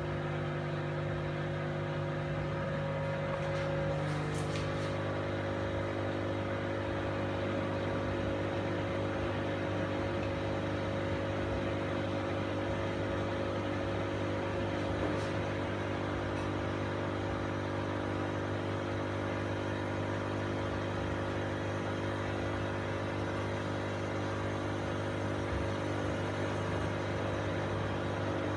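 AEG Lavamat front-loading washing machine running, its motor giving a steady hum with several whining tones. The tone changes about five seconds in, and a few faint clicks come near then and again in the middle.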